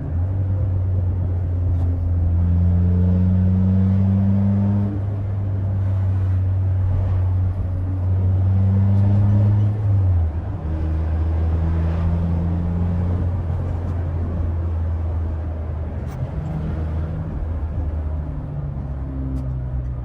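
Peugeot 206 GTI's 2.0-litre four-cylinder engine, with a straight-pipe exhaust and an open performance intake, running on the road at fairly steady revs. Its pitch drops sharply about halfway through, then holds a little lower.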